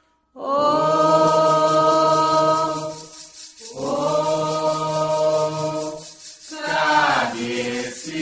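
Voices chanting a Candomblé song for Xangô in Yoruba, holding two long sustained notes and then singing a phrase that slides down in pitch near the end.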